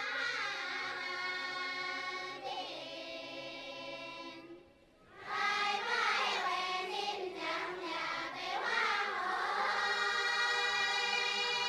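A choir singing without instruments, holding long notes. The singing breaks off briefly about four and a half seconds in, then comes back with livelier moving lines before settling into held notes again.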